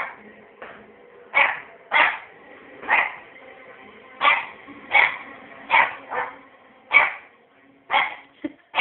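A puppy barking over and over, short sharp barks coming about once a second.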